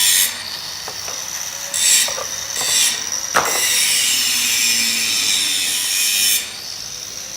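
Tool work during installation of a screw conveyor: a harsh, hissing rasp that stops and starts several times, with a sharp knock a little over three seconds in.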